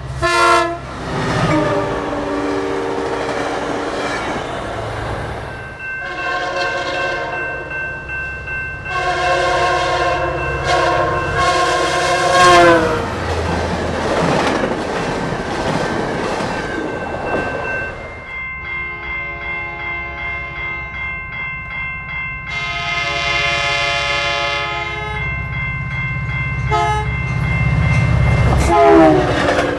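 Diesel passenger locomotive, an EMD F40PH, sounding its air horn in a series of long and short blasts. The horn pitch drops as the train passes about twelve seconds in, followed by the rumble of wheels on the rails. A bell rings steadily under the later horn blasts.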